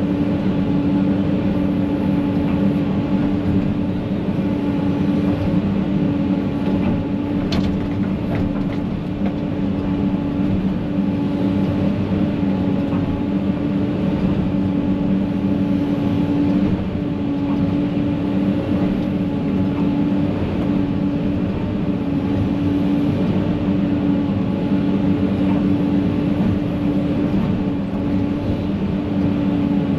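An engine running at a steady speed, a constant drone.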